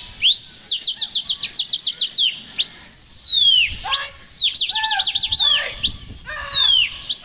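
A small bird sings loudly close by. It gives a quick run of short rising chirps, about eight a second, then a string of longer whistled notes that rise and slide down, mixed with lower, held notes.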